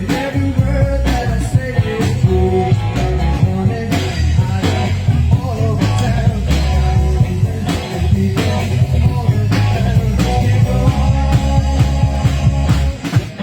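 Live rock band playing: electric guitar, bass and drums, recorded loud from the room with a phone or camera.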